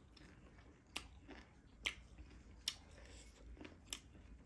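Close-miked chewing on a slice of lime, with sharp mouth clicks about once a second.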